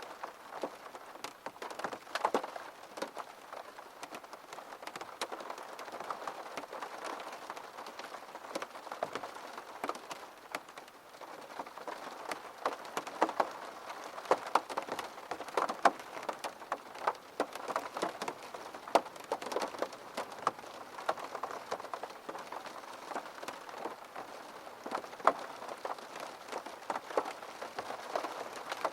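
Steady rain falling on a surface, with many separate drops striking sharply over a soft constant patter.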